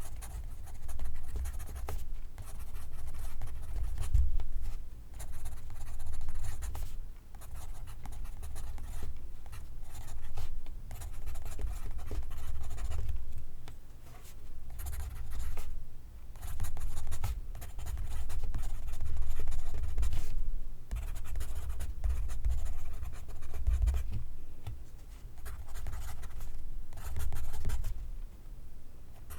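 Pencil writing on paper: continuous scratchy strokes in uneven runs with brief pauses between words.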